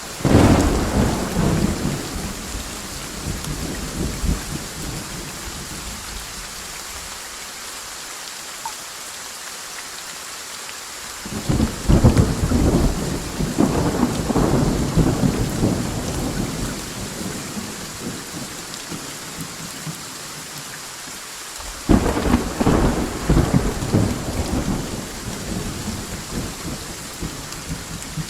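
Steady rain falling, with three claps of thunder: one right at the start, one about a third of the way in and one about two thirds in, each breaking suddenly and rumbling away over several seconds.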